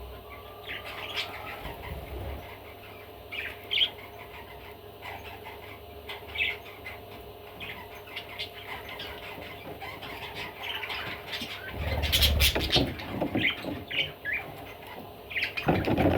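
Budgerigar giving short, scattered chirps and squawks, with a louder burst of flapping and rustling about twelve seconds in.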